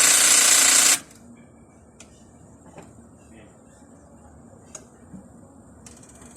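A car's starter solenoid chatters in a rapid buzz for about a second as the key is turned, then a few faint clicks follow. This is the rapid clicking of a battery too weak to crank the engine: its voltage collapses under the starter's load.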